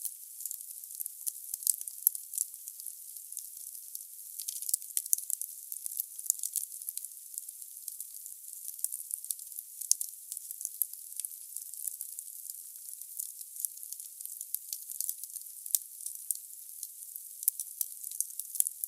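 Firewood burning in a fireplace: a steady hiss with frequent sharp crackles and pops, all thin and high-pitched with no low rumble.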